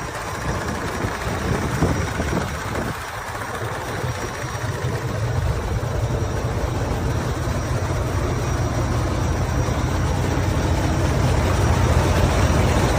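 Heavy diesel truck engine, the Volvo D13 inline-six of a 2017 Volvo VNL tractor, running steadily at low speed, growing gradually a little louder through the second half.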